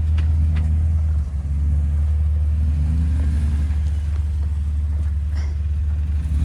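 Jeep engine running at low revs with a steady low rumble, its pitch rising and falling gently as it crawls along the slickrock trail.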